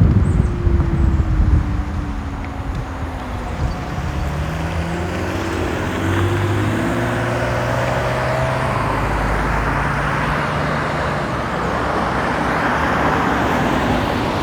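Road traffic on a wet road: passing cars and trucks, with a steady tyre hiss and engine notes that slide down in pitch as vehicles go by, and wind buffeting the microphone for the first second or two.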